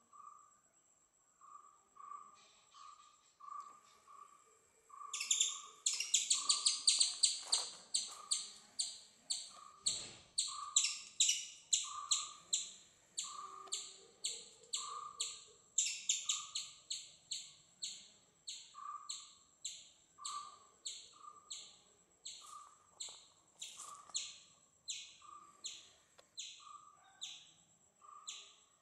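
Birds calling: one repeats a short mid-pitched note about twice a second, and about five seconds in a run of sharp, high-pitched chirps starts, fast at first and gradually slowing.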